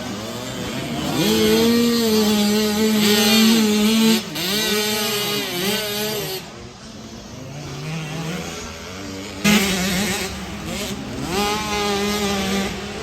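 Small 65cc two-stroke dirt bikes racing, their engines revving up and down as the riders work through the track. The engines fade lower near the middle, then come back loud about three quarters of the way in.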